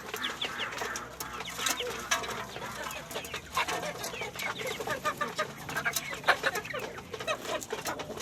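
Domestic chickens clucking among many short taps and clicks, the sound of birds pecking at scattered feed.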